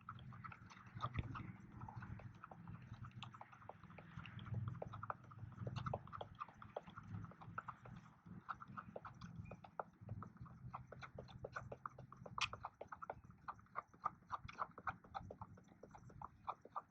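Stirrer clicking and scraping against the sides of a cup while two-part expanding marine pour foam is mixed by hand: quick, uneven ticks, several a second, over a faint low hum.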